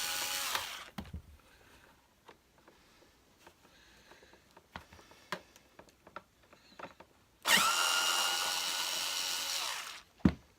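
Power drill-driver backing out screws: its motor whines and stops about half a second in. Small handling clicks follow, then it spins up again for about two and a half seconds near the end, and there is a single knock just after.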